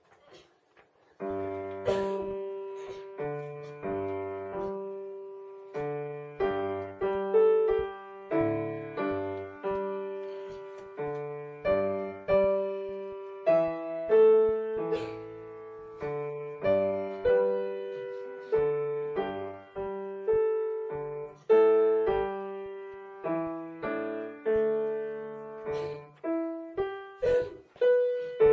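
Solo piano playing a melody over chords and bass notes, starting about a second in.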